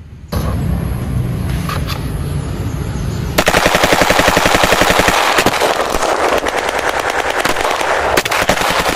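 Automatic-weapon gunfire: a low steady rumble, then from about three seconds in a fast continuous stream of shots. It is the firing sound for a toy M16-style assault rifle being shot.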